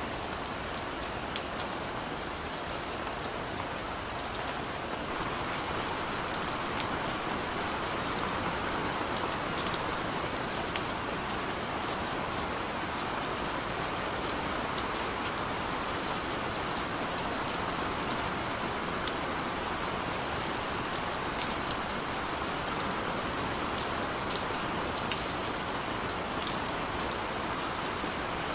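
Steady rain falling, a dense even hiss with many separate drops ticking on a surface; it grows slightly heavier about five seconds in.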